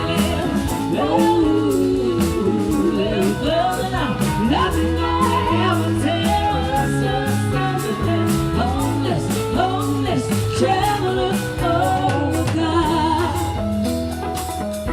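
Live band playing a rock-and-roll song, with a drum kit keeping a steady beat, guitar and bass, and singing with gliding, bending notes.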